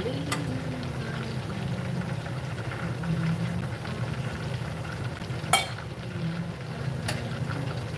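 Chicken thighs deep-frying in hot oil, a steady sizzle. A metal slotted spoon knocks against the stainless saucepan three times as the pieces are turned, loudest about five and a half seconds in.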